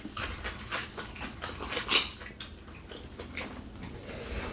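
Close-miked eating: wet chewing and lip-smacking in a run of short clicks, loudest about two seconds in.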